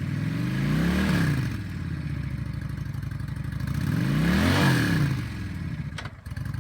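2013 Honda VT750 Shadow Aero's fuel-injected V-twin idling with the throttle blipped twice, each rev rising and dropping back to idle within about a second. There are a few sharp clicks near the end.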